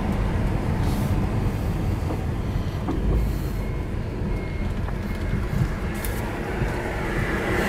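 Mercedes-Benz R107 500SLC AMG's V8 engine running at low road speed, heard from inside the cabin as a steady low rumble mixed with road noise.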